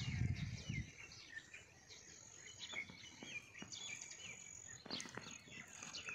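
Several birds chirping and calling, with many short high chirps and quick rising and falling notes throughout. A thin, steady high tone holds for about a second near the middle, and a brief low rumble sounds in the first second.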